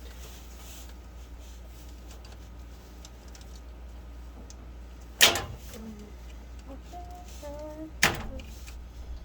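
Two sharp knocks about three seconds apart, from hand tools working on the furnace wiring, over a steady low hum.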